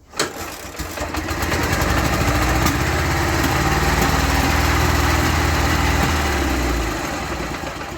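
Ural motorcycle's flat-twin engine starting hot, catching at once, then running steadily. It dies away about seven seconds in.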